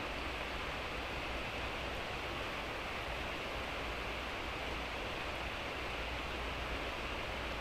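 Steady hiss of light rain falling, with a low steady rumble underneath.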